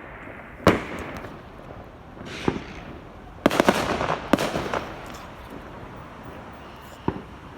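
Fireworks going off: a sharp bang a little under a second in, a quick run of crackling bangs around the middle, and a single pop near the end.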